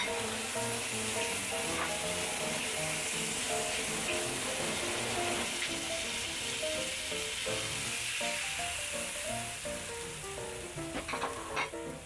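Chicken pieces, shallots, garlic and ginger sizzling in hot oil in a wok, a steady frying hiss. Background music with a simple melody plays over it, and a few sharp clinks come near the end.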